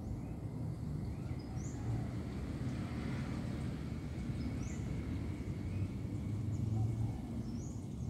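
Outdoor background of a steady low rumble, with a small bird giving a short, high, rising chirp three times.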